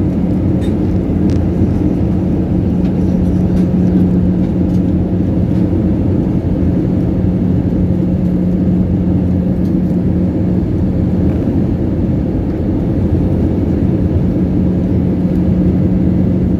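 Airliner cabin noise on the approach to landing: the jet engines and airflow make a steady drone with a constant low hum.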